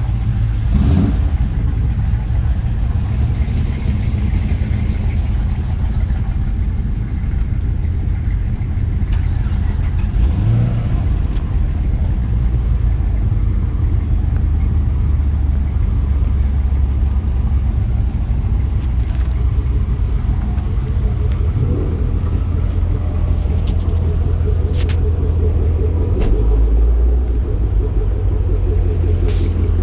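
Car engines running with a low rumble as cars drive off one after another, with a few brief revs as they pull away.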